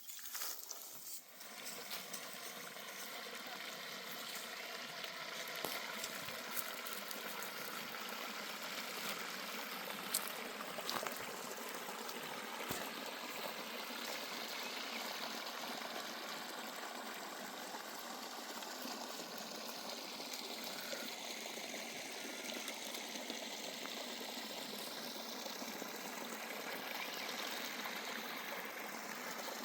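River water flowing steadily over stones, rising in over the first couple of seconds.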